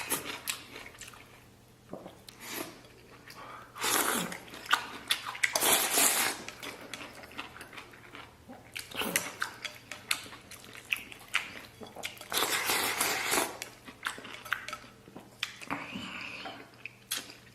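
A man eating close to the microphone: chewing with wet, noisy bursts of slurping and mouth sounds coming at irregular intervals, with quieter gaps between.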